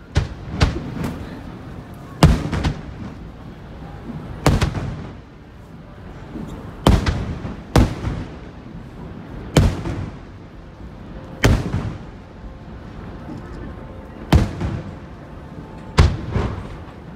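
Large aerial firework shells bursting overhead: about a dozen sharp booms one to three seconds apart, each followed by a rumbling tail.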